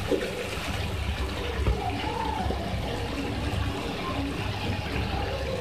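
Chicken and green capsicum sizzling steadily as they fry in a wok.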